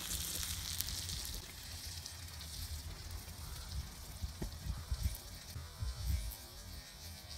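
Spam slices and a burger patty sizzling on a Mojoe flat-top griddle: a steady frying hiss, louder in the first second or two, over a low rumble.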